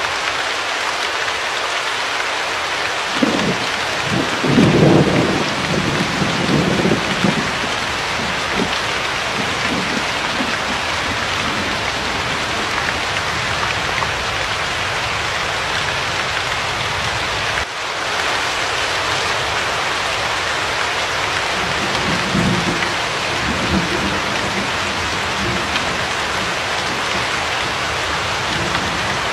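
Steady rain hiss, with low rolls of thunder rumbling a few seconds in and again past the middle.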